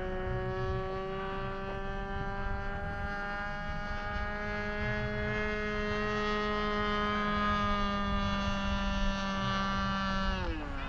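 Magnum engine of a radio-controlled Cessna 182 model airplane in flight, a steady drone whose pitch drifts slightly, then drops sharply about ten seconds in.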